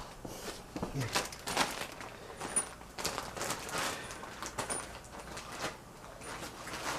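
Small parts and packaging being handled: irregular light clicks, taps and rustles, with a few faint high metallic pings, as small fan hardware such as washers is sorted through.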